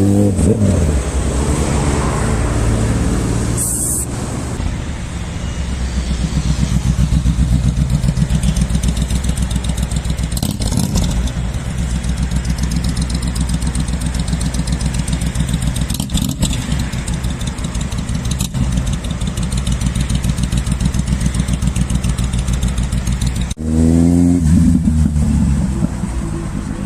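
Sport motorcycle engine revving at the start, then running at steady revs with a fast pulsing exhaust note for most of the stretch. About 23 s in the sound breaks off abruptly, and the engine revs up and drops back again.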